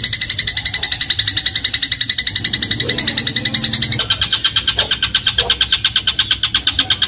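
Eurasian tree sparrow giving a rapid chattering rattle of short high notes, about ten a second, as a tutor call for songbirds. About four seconds in, the rattle steps down to a slightly lower pitch.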